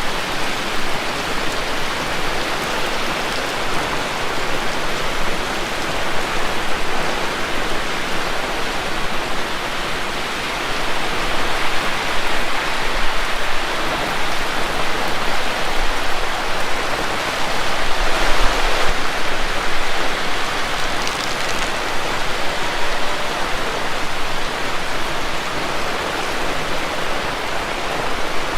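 Heavy rain pouring down steadily, briefly swelling a little louder about two-thirds of the way through.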